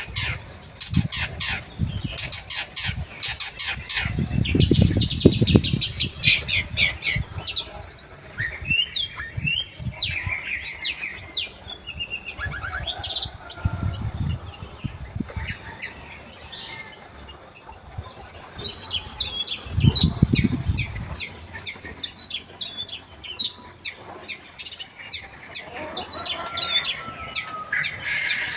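Long-tailed shrike (cendet) singing a rapid, varied song of sharp chirps and short chattering trills. Bursts of low rustling thuds come in several times.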